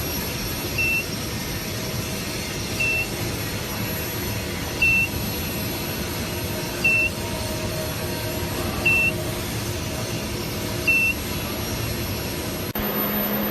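A short, high electronic beep repeating about every two seconds, six times, over a steady machine noise. Near the end the sound cuts to a steady low hum.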